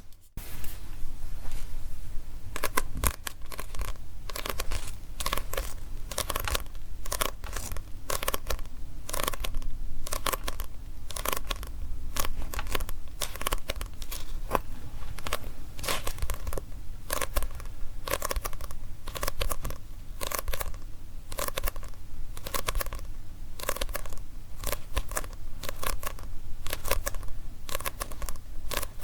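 Tapping on a manga book: quick, irregular crisp taps and scratches on its paper cover and pages, several a second, with a dry papery crackle.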